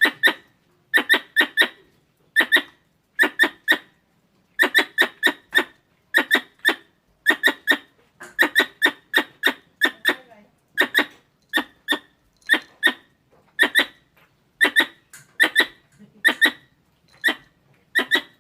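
Squirrel calls: short, sharp chirps in clusters of three or four, repeating about once a second, as used to lure wild squirrels.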